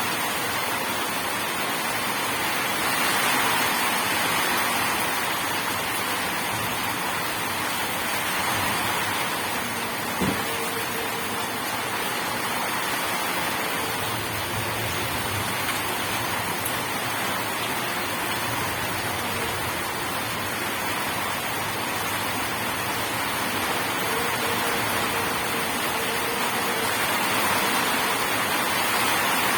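Steady heavy rain falling in a dense, even hiss, with one short knock about ten seconds in.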